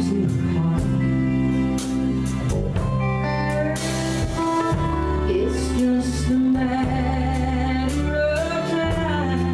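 Live country band playing an instrumental break: a guitar lead with sustained, bending notes over bass and drums, with cymbal crashes.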